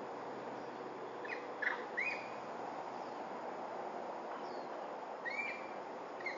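Small birds calling in short chirps, a few at a time in two clusters, over a steady background hiss.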